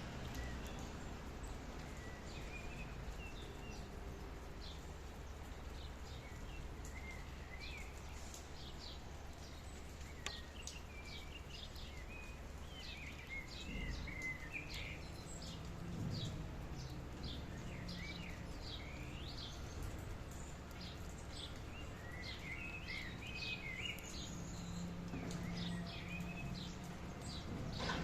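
Small birds chirping and calling over a steady, even hiss of rain. The quick chirps come thick and often through most of the stretch.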